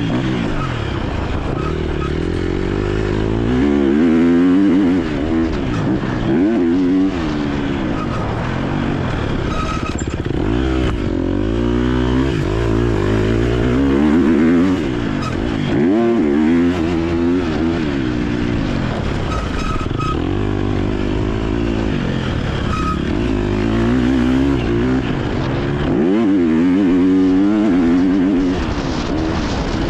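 KTM 250 SX-F's single-cylinder four-stroke engine revving hard and easing off over and over as the motocross bike is ridden round the track, its pitch climbing and dropping every few seconds.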